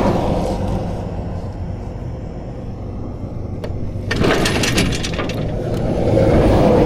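Highway traffic going past close by, swelling near the start and again near the end. About four seconds in, a clatter of metal on metal lasting about a second.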